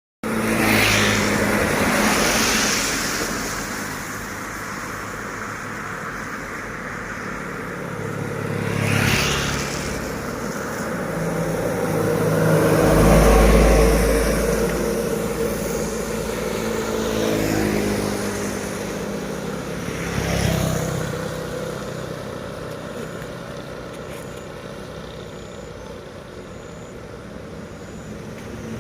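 Heavy trucks passing one after another on a highway climb, their diesel engines running under load. The loudest pass comes about 13 seconds in, with a deep rumble, and smaller passes come near the start, about 9 seconds in and about 20 seconds in.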